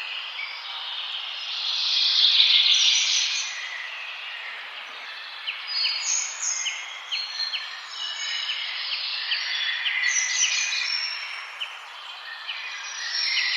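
Several birds singing and chirping together in a forest chorus over a steady background hiss. A dense burst of chatter comes about two seconds in, and a run of short, sharp chip notes, about three a second, runs through the middle.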